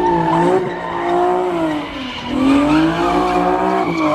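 Car engine held at high revs while its tyres squeal, spinning donuts. The revs sag briefly about two seconds in, then climb again.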